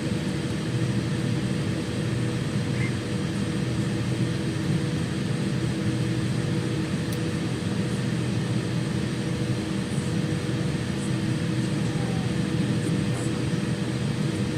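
Steady engine and airflow noise inside the cabin of a Boeing 787-9 airliner: a constant rushing hum with a few steady low tones.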